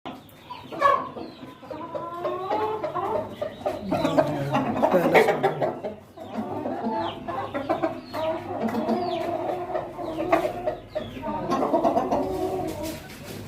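Chickens clucking, with several calls overlapping throughout and occasional short, higher chirps.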